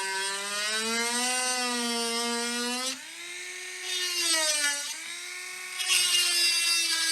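Small handheld electric rotary tool running while it works on a laptop circuit board. It runs with a steady whine that is lower and louder for the first three seconds, then higher and quieter, with a brief dip in pitch a little before the end.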